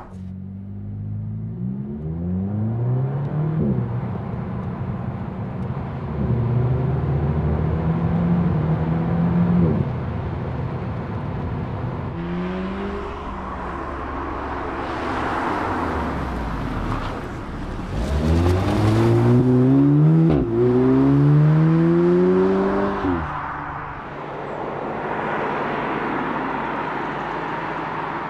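2014 Audi S3 sedan's turbocharged 2.0-litre four-cylinder engine accelerating through the gears, its pitch climbing and dropping at each upshift several times over. It is mixed with a rush of tyre and road noise as the car goes by, loudest a little past halfway.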